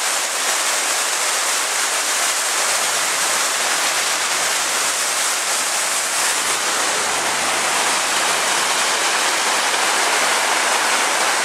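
Storm runoff rushing down a street with no drainage channels, a steady, loud, unbroken rush of water.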